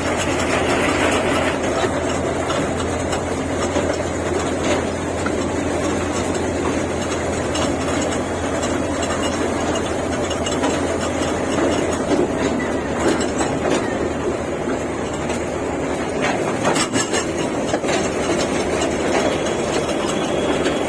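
Park toy train running along its track: a steady rumble with a few sharp clicks from the wheels and cars.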